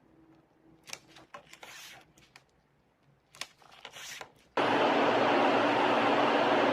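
Faint clicks and rubbing from handling, then about four and a half seconds in a loud, steady mechanical whirr with a low hum starts suddenly and keeps running.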